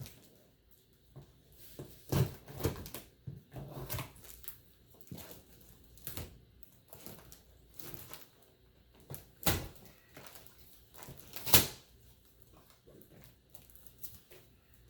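A large cardboard shipping box being opened and handled: irregular knocks, scrapes and rustles, with three sharp, loud knocks about two, nine and a half and eleven and a half seconds in.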